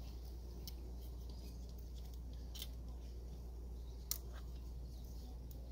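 A handful of sharp, small clicks as parts are handled in a car's engine bay during coil-pack removal, the loudest about four seconds in, over a steady low hum.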